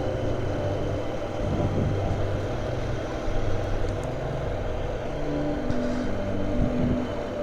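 Motorcycle engine running under way, its low note stepping up and down a few times as the revs change, with a higher tone joining about five seconds in.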